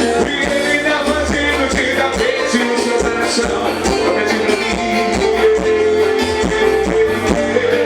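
Band music with a steady beat, bass line and sustained instrument notes, played live.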